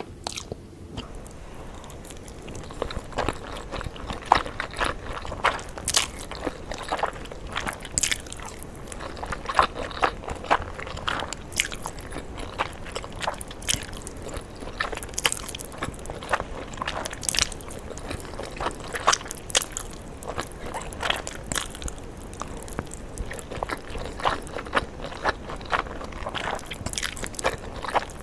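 Close-miked eating of spicy noodles: chewing, with many short, irregular wet mouth clicks and smacks.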